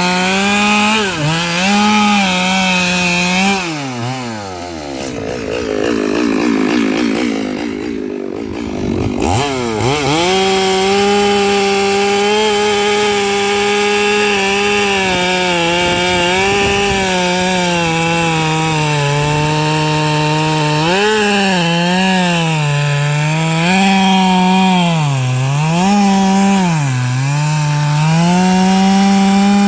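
Stihl MS 382 two-stroke chainsaw cutting eucalyptus logs at high revs. About four seconds in the engine falls to a low idle, revs back up near ten seconds and cuts steadily, then dips and recovers several times under load in the last third.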